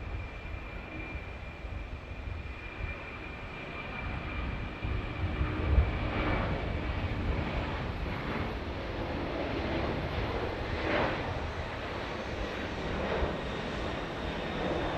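Jet airliner engines running, a steady high whine over a low rumble, growing a little louder about a third of the way in.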